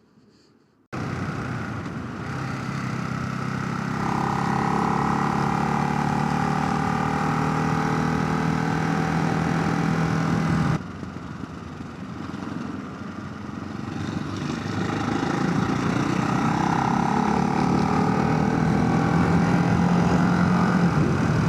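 Motorcycle engine pulling hard with its pitch climbing steadily, mixed with rushing wind noise. About eleven seconds in the note drops sharply, then climbs again. The sound cuts in abruptly about a second in.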